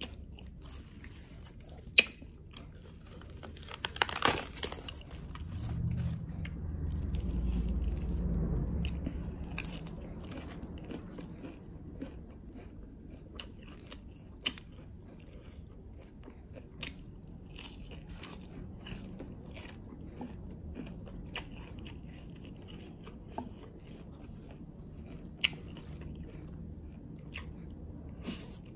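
Close-up eating sounds: chewing and biting of spicy noodles and leafy lettuce, with frequent small wet mouth clicks. A louder crunchy bite about four seconds in, and a low rumble from about six to nine seconds in.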